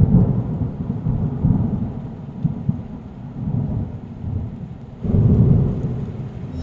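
Low rolling rumble that swells near the start and again about five seconds in.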